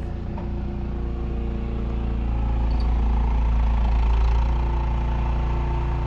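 Snowblower engine running steadily, growing louder over the first few seconds and then holding level.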